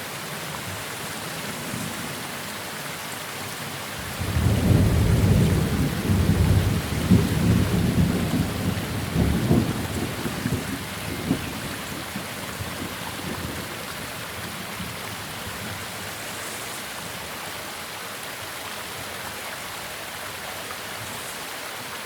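Steady rain falling, with a thunderclap breaking in suddenly about four seconds in and rumbling for several seconds before fading back into the rain.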